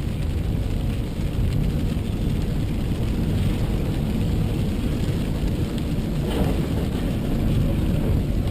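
Steady low rumble of a car driving, road and engine noise, with a brief louder scrape-like noise about six seconds in.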